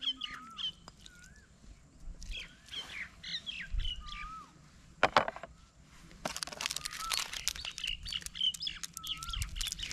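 Birds chirping and whistling, repeating short notes that rise and fall. A sharp knock comes about five seconds in, and from about six seconds on there is a dense run of crackles.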